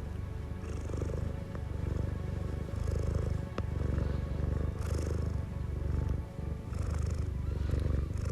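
Domestic cat purring: a steady low rumble that swells in a cycle about every two seconds with its breathing.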